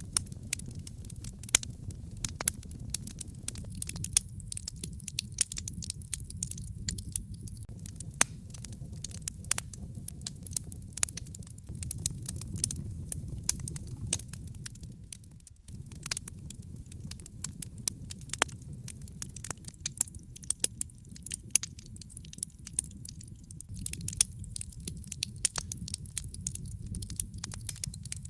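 Wood fire crackling in a fireplace: many irregular sharp pops and snaps over a steady low rumble, which dips briefly about halfway through.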